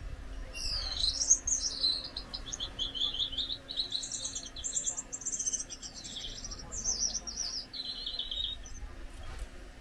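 Gouldian finch singing: one long, high-pitched phrase of rapid repeated notes and short trills, starting about half a second in and stopping near the end.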